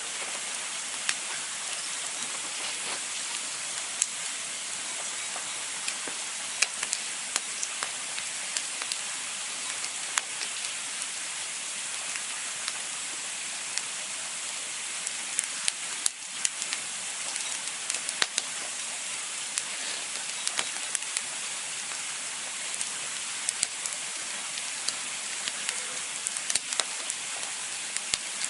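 Campfire burning with a steady hiss and frequent sharp, irregular crackles and pops of burning wood.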